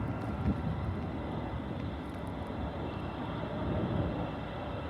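Steady low rumble of distant vehicle noise, swelling slightly and easing off again about three to four seconds in.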